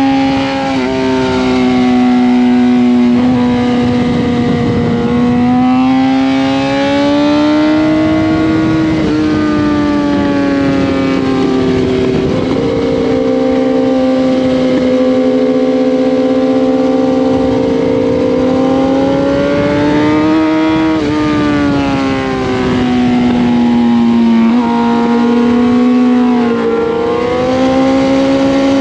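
Kawasaki ZX-10R's inline-four engine running hard on track, with rushing wind noise. Its pitch climbs and sags through the corners, with a few sudden jumps as gears change.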